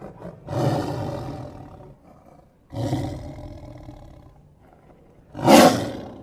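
Tiger roaring three times, each roar starting suddenly and fading away; the third, near the end, is shorter and the loudest.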